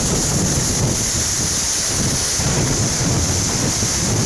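Steady rushing of a waterfall, with a low fluctuating rumble of wind on the microphone.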